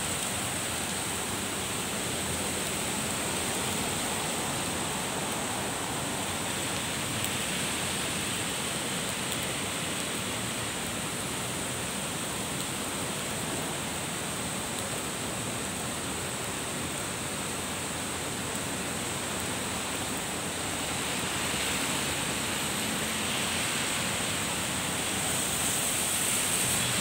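Heavy rain falling on pavement, grass, trees and road, a steady hiss. Near the end it swells as a truck's tyres go by on the wet road.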